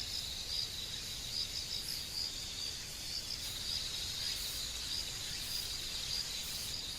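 Insects trilling in a steady, high, slightly pulsing drone over a low outdoor background hiss.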